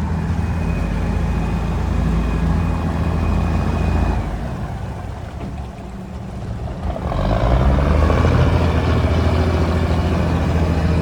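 A boat's engine running steadily. It eases off about four seconds in and picks up again about seven seconds in, coming back louder with a rush of added noise.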